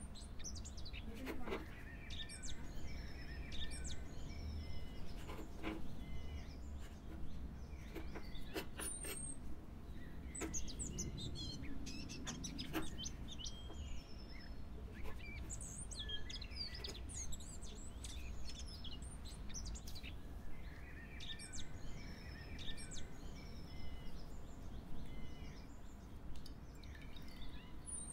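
Small birds chirping and singing, short rapid calls and whistles repeating throughout, with a few light knocks in the first half.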